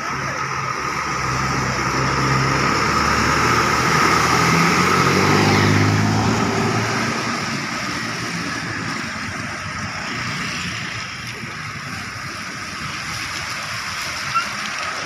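Road traffic in the rain: a steady wet hiss of rain and tyres, with a motor vehicle's engine passing and loudest around the middle. A short click near the end.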